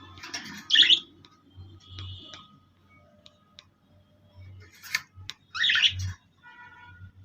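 Pet birds calling: two loud harsh squawks, one near the start and one about six seconds in, with softer chirps and ticks between them.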